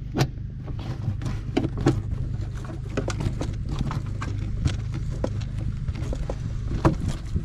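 Irregular clinks and knocks of hand tools and metal parts being worked during a machine repair, over a steady low hum.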